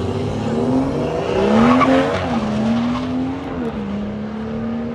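A car engine accelerating hard, its pitch climbing to a peak about two seconds in, then dropping at two gear changes.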